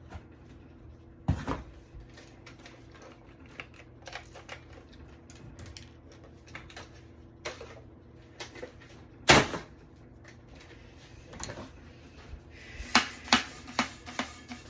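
Scattered knocks and clicks of objects being handled, with a loud knock about nine seconds in and a quick run of clicks near the end.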